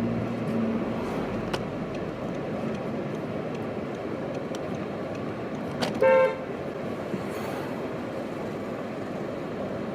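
A car horn gives one short toot about six seconds in, over the steady noise of a car and street traffic.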